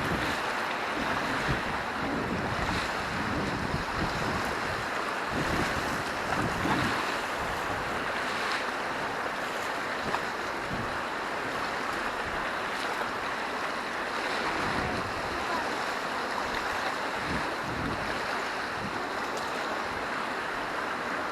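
Whitewater river rushing steadily around a raft, with wind buffeting the microphone in irregular low rumbles.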